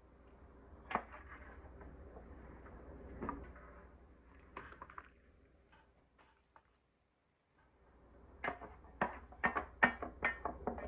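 Kitchen handling sounds: a few light knocks and clatters, a pause, then a quick run of about ten sharp taps near the end, like utensils against cookware.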